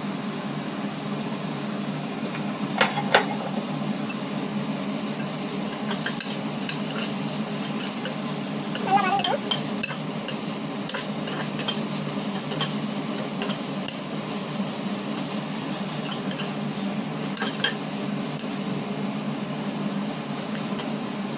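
Sliced onions and whole spices sizzling in hot oil in an aluminium pot while a perforated metal skimmer stirs them, scraping and clinking against the pot's sides and base. The frying hiss is steady, broken by irregular metal clicks, the sharpest a couple of knocks about three seconds in.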